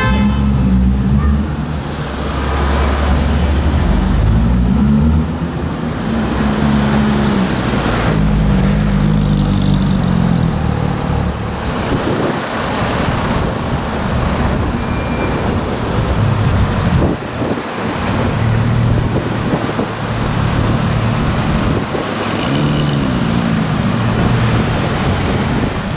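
Porsche 991 GT3-family flat-six engine moving through slow city traffic, its pitch rising and falling with several short pulls, over steady road traffic noise.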